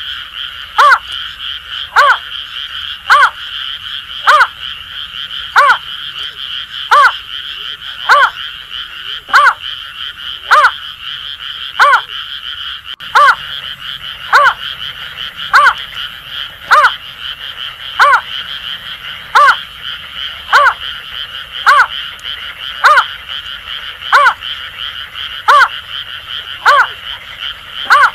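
Greater painted-snipe calling: short, falling hoots repeated evenly about once every 1.2 seconds. Over a steady, buzzing chorus of Asian grass frogs.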